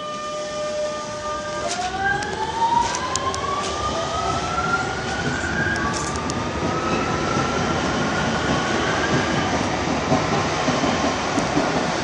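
Metro Valencia electric train starting off and accelerating: the motors' whine climbs in pitch in rising steps from about two seconds in, over steady running rumble, with a few sharp clicks early on.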